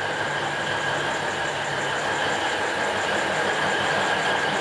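Alishan Forest Railway train running, heard from aboard: a steady rumble of the moving carriage with a steady high-pitched whine over it.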